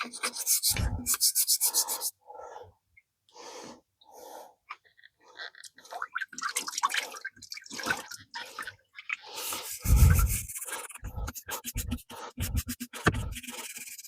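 Stiff hand brush scrubbing a flathead V8 engine part in fast back-and-forth strokes, in bursts, with scraping and handling noises in between. A heavy thump with a rush of noise comes about ten seconds in.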